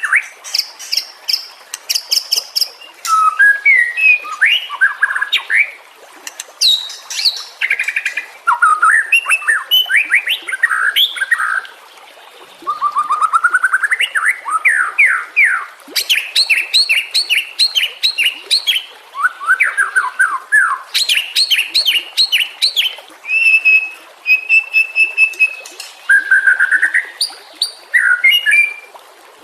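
White-rumped shama (murai batu) singing: a long, varied run of whistled phrases, rapid note series and sweeping trills, broken by short pauses.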